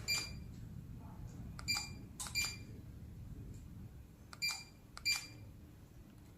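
Six short electronic beeps at uneven intervals, each starting with a click, two of them close together a little past two seconds in.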